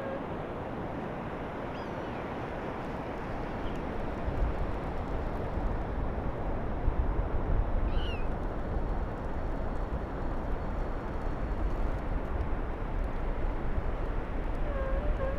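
Steady wash of surf and wind on an open beach, with wind buffeting the microphone more from about four seconds in. A few short, high calls cut through, one near the middle and another near the end.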